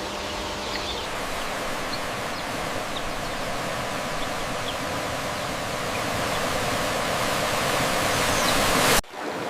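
Steady rushing water, a dense even noise that slowly grows louder and cuts off suddenly about nine seconds in.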